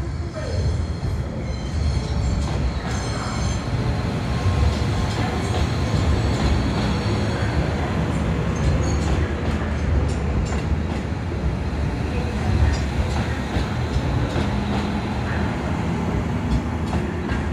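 A train running past at close range: a steady, loud rumble of engine and wheels on the rails, with scattered clicks.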